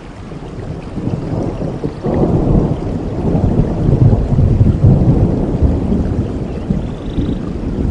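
Rolling thunder over steady rainforest rain, the deep rumble swelling suddenly about two seconds in and strongest in the middle before easing slightly.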